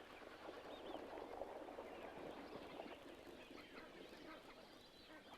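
Faint, busy chorus of many waterbirds calling together, with no single call standing out.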